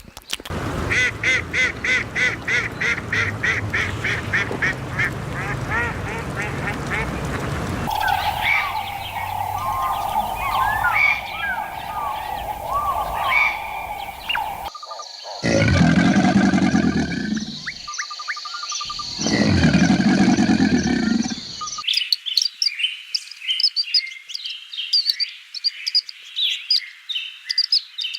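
Farm animal and bird calls in several cut-together clips: a fast run of repeated calls for about eight seconds, then chirping over a steady tone, then two long low calls, then many short high chirps near the end.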